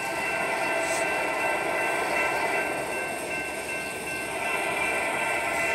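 Approaching train: steady rail running noise, with a few steady high-pitched tones over it.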